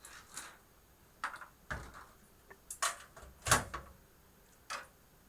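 Scattered knocks and clicks of power-supply cables and connectors being handled against a computer case, about six in all, the loudest about three and a half seconds in.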